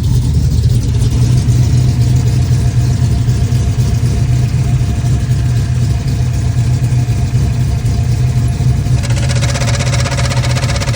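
Factory Five Cobra replica's engine idling steadily. About nine seconds in, a fast, buzzing shudder with a whine joins in. This is the noise the owner gets with the clutch pedal pushed in, from the clutch or the TKX gearbox, cause unknown to him.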